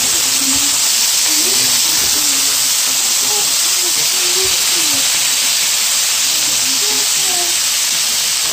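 Raw shrimp sizzling in hot oil in a frying pan with sliced red onion and garlic: a loud, steady hiss.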